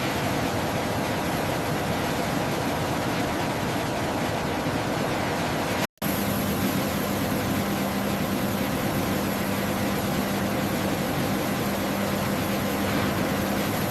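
Steady, loud rushing noise of running machinery, typical of aircraft or ground-support equipment. It cuts out sharply for an instant about six seconds in, then resumes with a low steady hum added.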